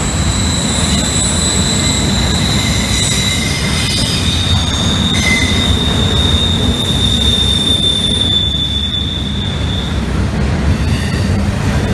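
Double-stack intermodal freight train rolling past close by, its well cars rumbling on the rails, with a steady high wheel squeal that stops about ten seconds in.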